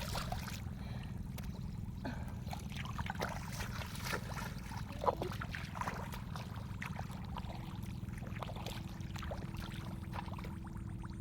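Shallow water in a flooded rice field trickling and splashing lightly, with scattered small ticks, over a steady low rumble.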